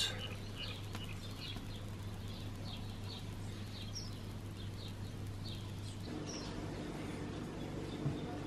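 A bird chirping over and over, short high calls every half second or so, over a steady low hum.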